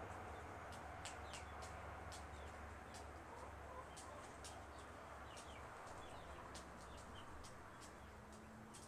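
A small bird giving soft, quick high chirps and ticks, scattered irregularly, over a faint steady low hum.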